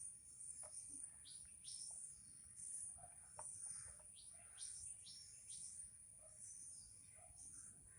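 Near silence with faint, short falling chirps, typical of birds calling in the background, repeated every half second or so over a steady high thin tone.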